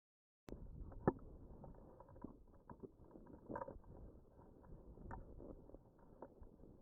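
Faint wind rumbling on the microphone in a strong gusty wind, with a few light clicks, one about a second in.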